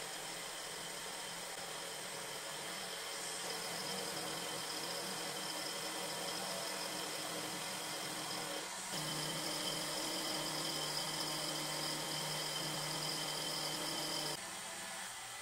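Electric power tool motor running with a steady whine. It gets louder about nine seconds in and drops off shortly before the end.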